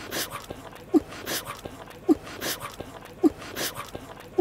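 Cartoon chewing on a steady loop: each cycle a short low note that rises in pitch, followed by smacking, munching noises. The cycle repeats about once every 1.1 seconds.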